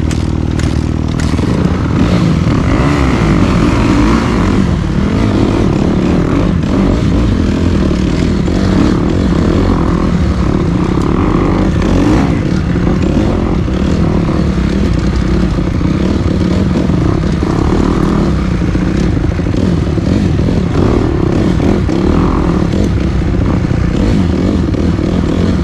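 Dirt bike engine running while being ridden, its revs rising and falling.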